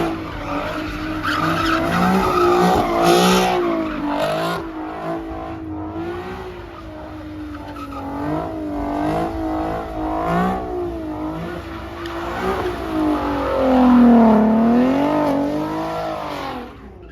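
Car engine revving up and down over and over while its tyres squeal and skid, the sound of a car spinning its wheels on pavement. The revs are highest about fourteen seconds in, and the sound falls away just before the end.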